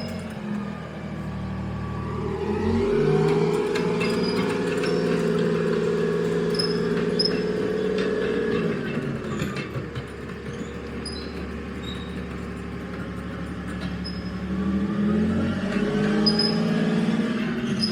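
M113 armoured vehicle's engine running under load during a test drive after an engine swap, its pitch rising about two seconds in, easing back around nine seconds and rising again near the end, with short high squeaks over it.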